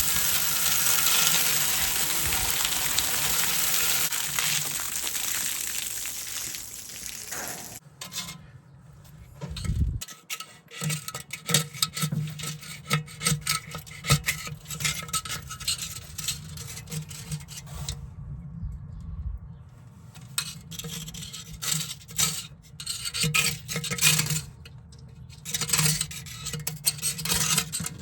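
A steady hiss for about eight seconds, then irregular scraping, rubbing and clinking of metal and loose sediment as the cut-open water heater tank is handled and searched for its leak.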